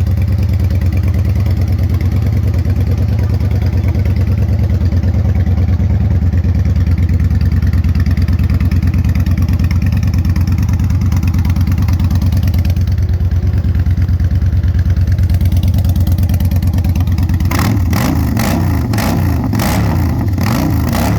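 2016 Victory Gunner's 106-cubic-inch V-twin running steadily through an upgraded aftermarket exhaust, a deep even rumble. About three and a half seconds from the end, the rumble turns choppier and a run of sharp clicks comes in.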